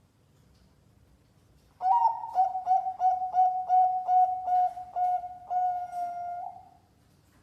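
Zebra dove (perkutut) singing a competition-style coo after a short quiet: an opening note, then a quick run of short, clipped coos at about three a second, ending in a longer drawn-out coo.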